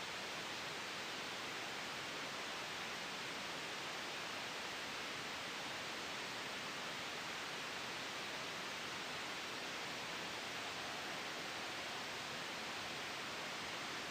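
Steady, even hiss of generated white noise made for sleep and noise masking, brightest in the upper middle range, with no swells or changes.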